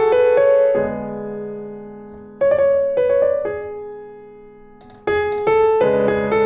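Background piano music: gentle phrases of notes that ring out and fade, a new phrase starting about two and a half seconds in and again about five seconds in.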